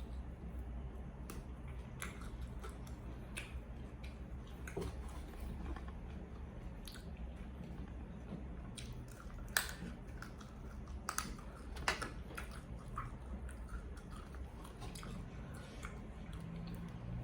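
A person chewing and biting food close to the microphone, with scattered small wet clicks and a few sharper clicks in the second half, over a steady low hum.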